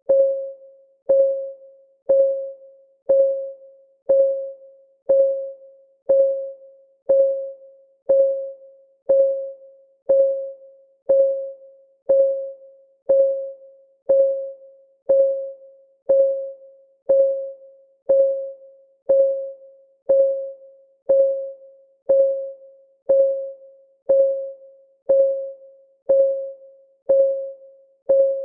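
Countdown timer's clock ticking sound effect: one tick each second, each a sharp click with a short ringing tone that fades before the next.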